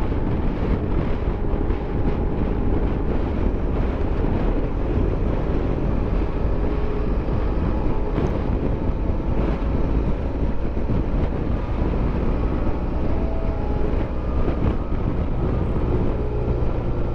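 Motorcycle engine running steadily at road speed, mixed with wind noise buffeting the microphone.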